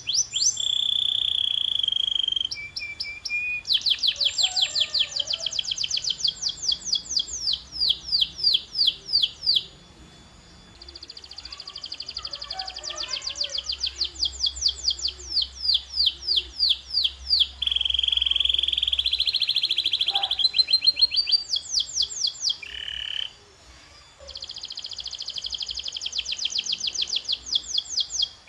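Domestic canary singing: a song of rapid trills, each a string of quick downward-sweeping notes, broken by a few held whistled notes. The song pauses briefly about ten seconds in and again near twenty-three seconds.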